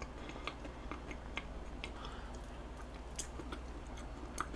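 Faint close-up chewing of soft cheesecake, with small scattered mouth clicks over a low steady hum.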